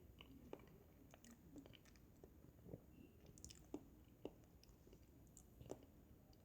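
A person faintly chewing a mouthful of banana, with soft, irregular wet mouth clicks.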